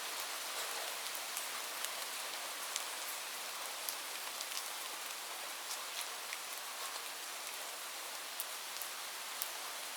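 Light rain falling steadily: an even hiss with many scattered sharp drip ticks.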